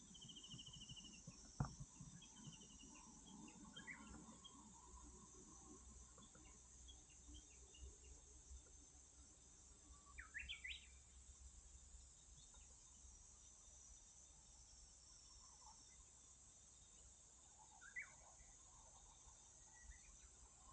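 Faint outdoor ambience: scattered short bird chirps, clearest about ten and eighteen seconds in, over a steady high hiss, with one sharp tap about one and a half seconds in.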